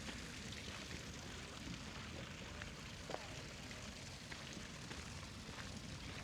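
Outdoor park ambience: a steady distant city hum with a few faint, scattered ticks.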